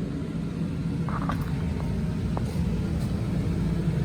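Steady low motor rumble, with a few light clicks and taps between about one and two and a half seconds in.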